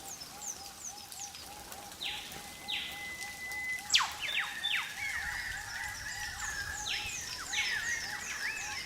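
Several birds calling in rainforest: a run of short, high, falling notes repeating, with a steady row of lower notes about three a second underneath. About four seconds in comes one sharp, loud, whip-like call falling steeply in pitch, followed by short answering notes.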